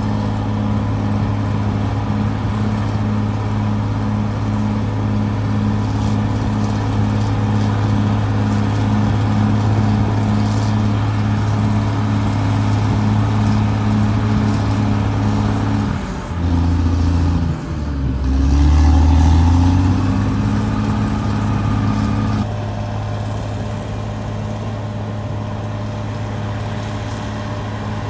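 Caterpillar D6R XL bulldozer's diesel engine running steadily. About sixteen seconds in, the engine note drops, then climbs back up and is loudest a couple of seconds later, before settling at a slightly lower level near the end.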